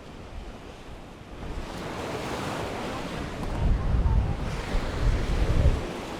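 Mediterranean waves washing up on a sandy beach, the surf swelling about a second and a half in and again near the end. Wind buffets the microphone with low rumbles.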